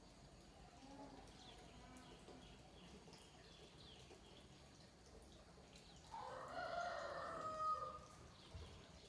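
A rooster crows once, loud and drawn out for about two seconds, starting about six seconds in, over faint small-bird chirps.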